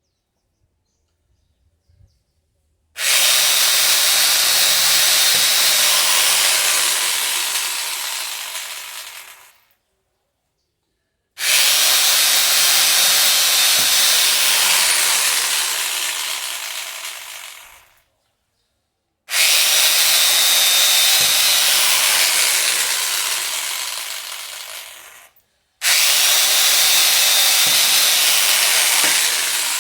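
Electric drill boring into metal four times, each run a steady hissing grind of about six seconds that starts suddenly and fades off before stopping, with short pauses between holes.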